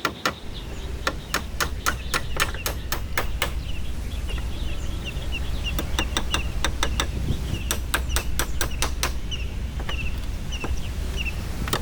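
Two runs of quick, sharp tool strikes on wood, about three a second, one at the start and one after a pause of a few seconds. Small birds chirp throughout, over a steady low rumble.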